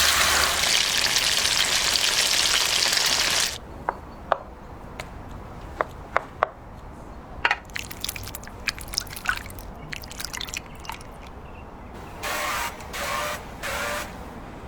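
Kitchen sounds while preparing food. Water runs steadily and cuts off suddenly after about three and a half seconds, then scattered light clicks and knocks follow. Near the end come three short hissing bursts.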